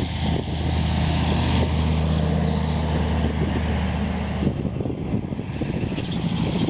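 A truck's engine running low and steady as it goes past, fading about four and a half seconds in, with heavy wind buffeting the microphone.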